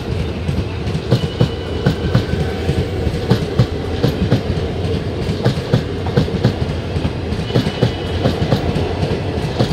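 Express train coaches running through without stopping, their wheels clattering over the rail joints in a rapid, irregular clickety-clack over a steady rumble. A faint high squeal comes twice.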